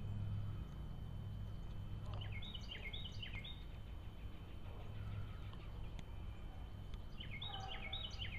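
A songbird singing a short, quick phrase of repeated down-slurred notes, twice, about five seconds apart, over a steady low hum.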